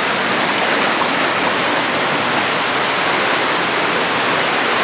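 Small waterfall pouring into its pool: a steady, even rush of falling water.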